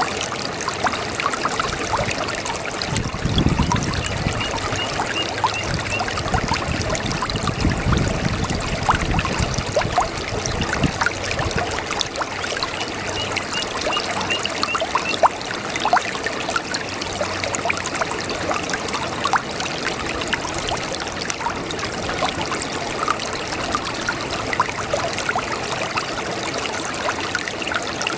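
Babbling brook: water trickling and splashing steadily.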